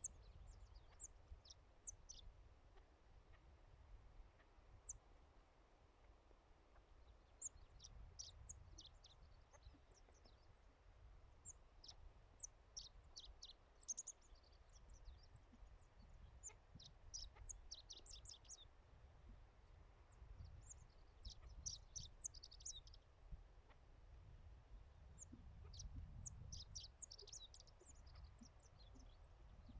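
Faint bird calls: short, high chirping notes in quick bursts every few seconds, over a low rumble of wind.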